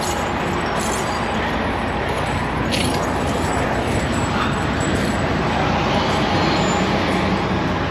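Semi truck's diesel engine idling, a steady rumble, with a couple of faint clinks of tire chains being handled.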